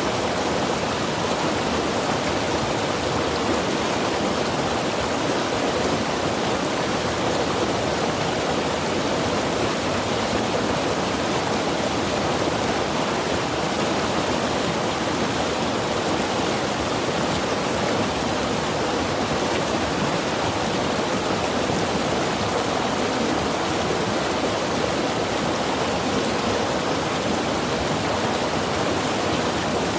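Mountain river rushing steadily, a continuous even wash of flowing water with no breaks or distinct splashes.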